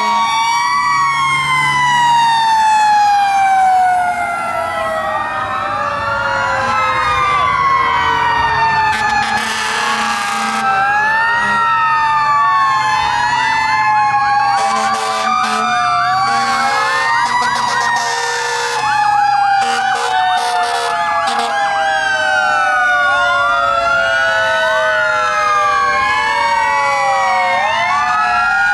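Several fire truck sirens sounding at once: a mechanical siren, such as the Federal Q, winding down in long slow falling tones, overlapped by electronic sirens wailing up and down. Short air horn blasts break in repeatedly near the middle.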